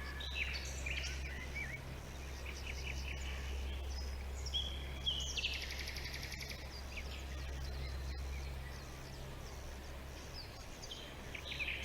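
Several small birds chirping and trilling in short, overlapping calls over a steady low hum.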